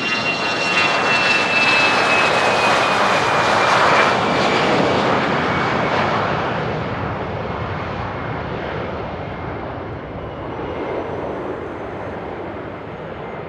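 Business jet passing close on the runway, its engine noise building to a peak about four seconds in and then fading away, with a high whine that drops in pitch as it goes by.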